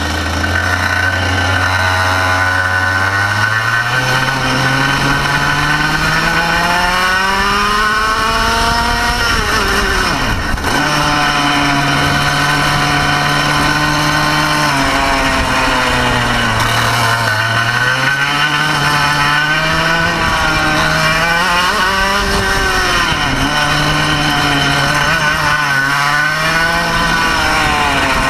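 Racing kart engine under load on track. It starts low and steady, climbs in pitch for several seconds, drops sharply off throttle about ten seconds in, then rises and falls again and again through the corners. It is running normally at this point.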